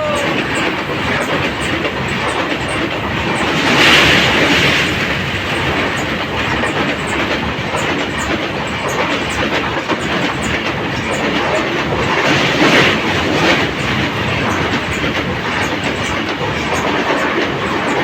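Padatik Express passenger train passing, its wheels clattering steadily over the rail joints, with louder swells about four seconds in and again near thirteen seconds.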